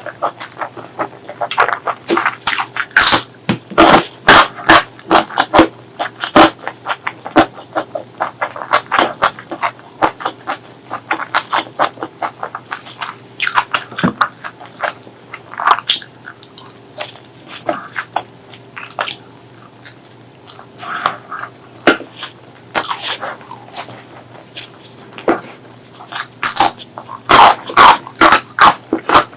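Close-miked eating sounds: wet chewing and lip-smacking, a dense run of loud smacks and clicks.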